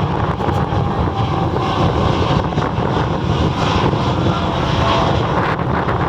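Boeing 777-300ER's twin GE90-115B turbofan engines at takeoff thrust, a steady jet roar heard from the ground, with wind rumbling on the microphone.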